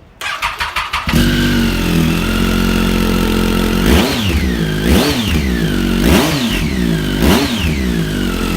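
Triumph Street Triple 675's inline three-cylinder engine, through aftermarket Arrow exhausts, cranking on the starter for about a second, catching and idling, then blipped four times, each rev rising and falling back to idle. It sounds loud.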